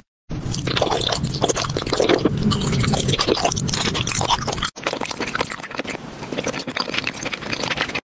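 Close-up eating sounds: candy being crunched and chewed in quick crackly bites. There is a short break a little past halfway, after which the chewing goes on somewhat quieter.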